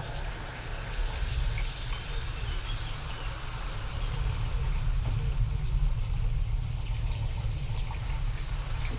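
Steady rain falling with a deep rolling rumble of distant thunder that grows louder around the middle, from a real storm recording treated with sound design to sound alien.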